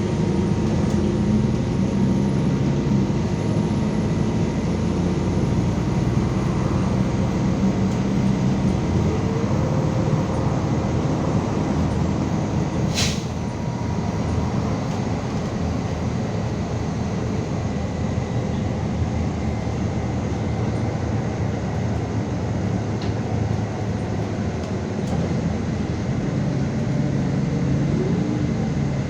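MAZ 216.066 articulated city bus running in service, its engine and drivetrain humming steadily with a faint whine, as heard from inside the bus; the engine note shifts about a third of the way in. A single sharp click sounds near the middle.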